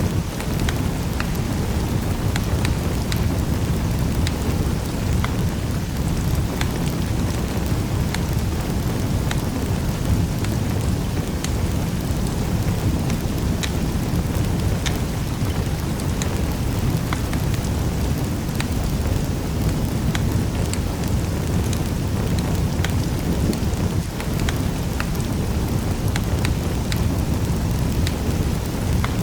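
Wood fire crackling in a fireplace: a steady low roar of the flames with many scattered sharp little pops and snaps.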